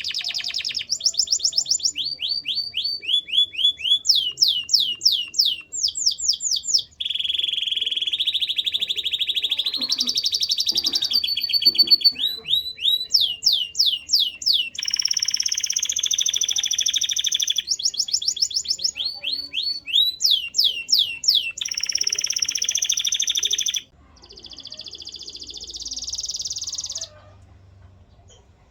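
Canary singing a long song made of fast runs of repeated sweeping notes and buzzy rolled trills, one phrase after another. The song falls away near the end.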